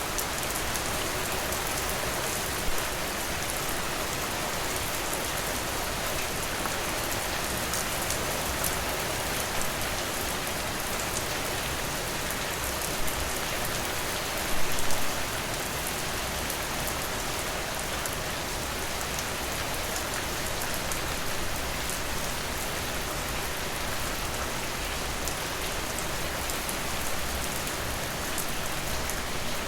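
Steady rain falling, a dense even hiss with fine pattering drops, and a brief louder patter about halfway through.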